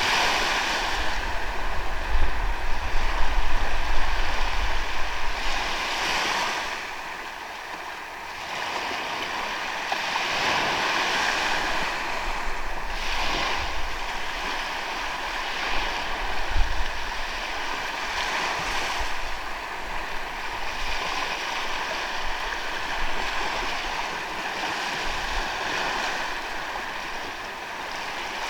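Sea waves washing onto a sandy beach, the surf swelling and easing every few seconds, loudest in the first few seconds with a low rumble under it.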